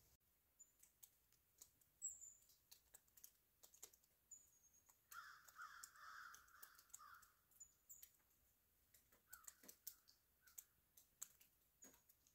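Very faint bird calls in bare winter woods: a few brief high chirps, and a harsh rasping call lasting about two seconds midway. Scattered faint clicks run under them.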